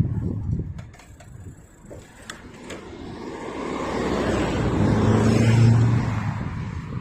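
A motor vehicle passing: a rushing noise with a low engine hum that builds over a few seconds, peaks near the end and fades. Wind buffets the microphone early on.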